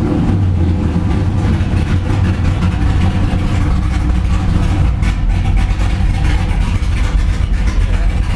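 Big-block Chevrolet V8 drag car engine running loud and steady, with a deep low rumble.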